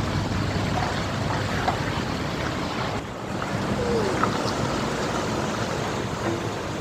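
Wind buffeting the microphone over the low rumble of truck and tractor engines passing by, a steady noisy haze that dips briefly about halfway through.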